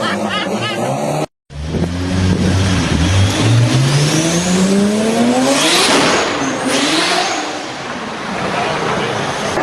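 Loud car engine accelerating hard, its pitch climbing steadily for several seconds to a peak, with harsh bursts at the top, then falling away. Before this, about a second in, a different engine sound cuts off abruptly.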